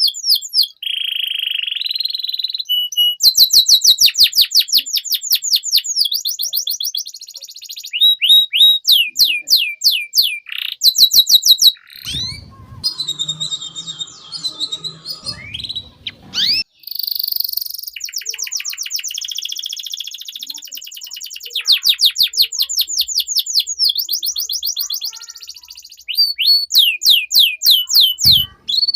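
Domestic canary singing a long, loud song of fast trills: each phrase is a rapid string of repeated high notes, switching to a new trill every second or two. Roughly halfway through, the trills give way for a few seconds to a rougher, lower sound before the song resumes.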